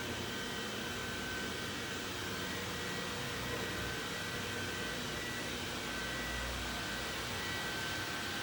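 Xiaomi Roborock Xiaowa E35 robot vacuum cleaner running, a steady whir with faint high-pitched whines that come and go.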